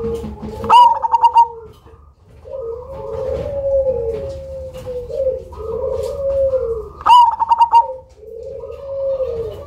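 Zebra dove (perkutut, black cemani variety) singing its rhythmic cooing song. Two loud, stuttering higher notes come about a second in and about seven seconds in, with longer, lower, wavering coos between them.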